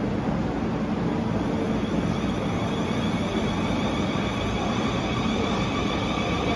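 Siemens Desiro class 444 electric train moving out of the station: a steady rumble and rolling noise, joined about two seconds in by the layered whine of its traction motors.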